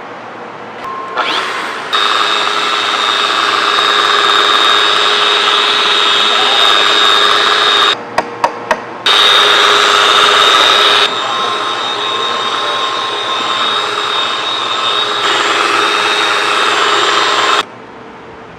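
A handheld electric power tool runs with a steady high whine, stops, gives three or four quick trigger blips, then runs again, its sound shifting as the load changes, and is switched off near the end.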